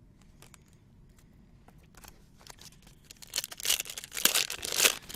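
A few light clicks of cards being handled, then, about three and a half seconds in, a trading-card pack's foil wrapper being torn open and crinkled in a quick run of loud crackles.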